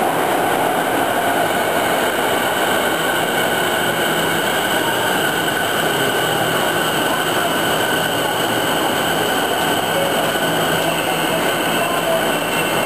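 Train running at a steady speed, heard from inside a carriage: an even rumble of wheels on rail with a steady whine over it.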